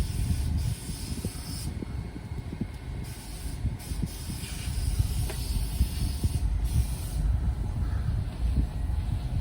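Compressed-air guns at a car wash entrance hissing in on-and-off blasts over a steady low rumble.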